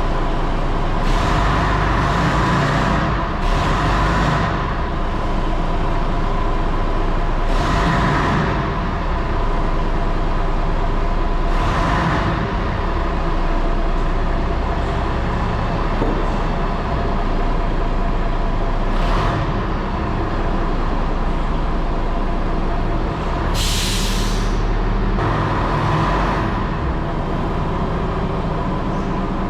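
Scania BR111 bus engine running steadily, overlaid by several short bursts of hissing noise. A sharper, higher hiss of compressed air comes late on, typical of the bus's air brakes releasing.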